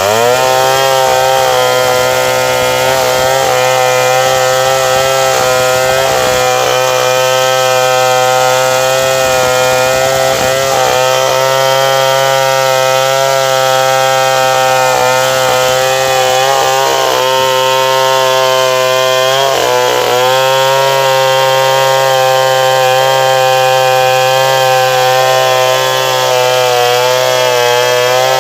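Stihl 070 two-stroke chainsaw revving up and held at full throttle while sawing wood, its pitch dipping briefly a few times under load.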